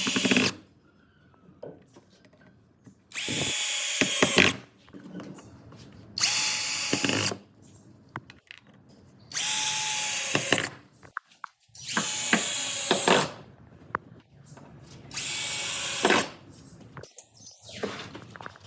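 Electric power drill run in short bursts of about a second each, repeating about every three seconds, six times in all, the way a drill is used to drive screws or bore holes one after another.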